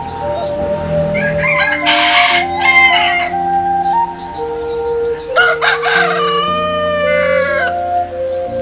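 A rooster crows twice, about two seconds in and again near six seconds, the second crow long and drawn out, over background music of slow held notes.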